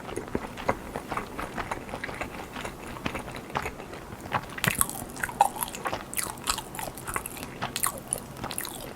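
Close-miked eating: a person biting and chewing food with crisp crunches, growing sharper and louder about halfway through.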